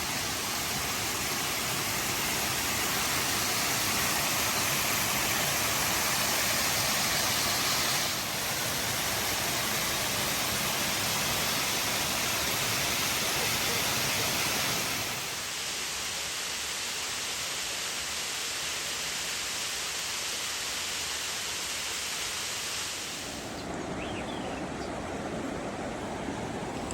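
Steady rushing water of a creek or small waterfall, an even hiss that shifts in level a few times.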